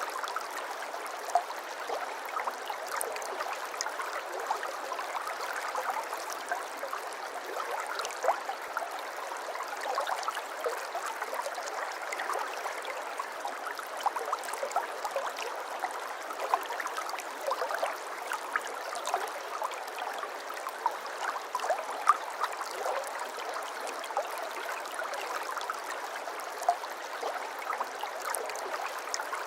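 Water flowing steadily in a babbling stream, a continuous gurgle flecked with many small splashes and bubbles.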